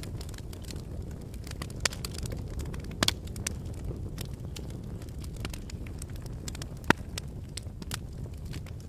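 Fire burning in a fireplace: a steady low rush of flames with frequent sharp crackles and pops, the loudest pops about three seconds in and near seven seconds.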